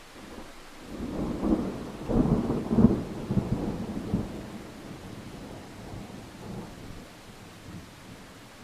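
A roll of thunder over steady rain: the deep rumble swells about a second in, is loudest around two to three seconds in, then dies away in a few weaker rumbles.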